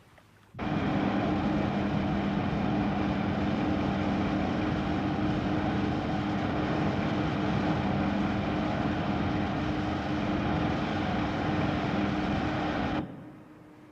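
Heavy engine noise, a steady drone with a constant low hum, that cuts in half a second in and stops abruptly near the end.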